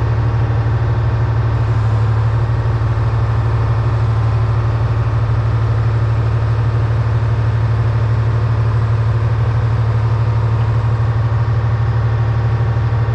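1978 Hein-Werner excavator's diesel engine running loud and steady at constant speed, with a strong low hum.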